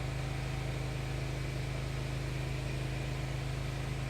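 A steady low hum under an even rushing noise, unchanging throughout.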